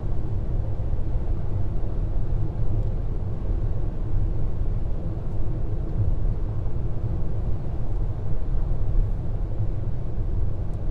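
Inside the cabin of a 1.2-litre Opel Corsa driving at motorway speed: a steady low rumble of engine and road noise.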